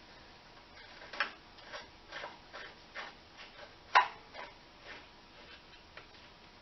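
Scattered light clicks and knocks of metal parts and hand tools being worked on a tractor, with one sharper knock about four seconds in.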